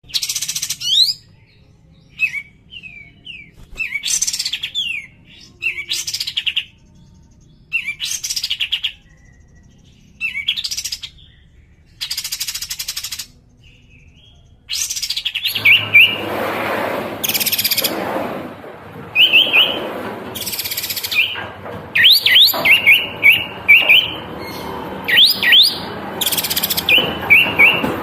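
Olive-winged bulbul (kapas tembak) singing loudly in short phrases of quick, sweeping whistled notes, spaced a second or two apart. About halfway through a steady rushing background noise comes in, and the phrases come faster and closer together.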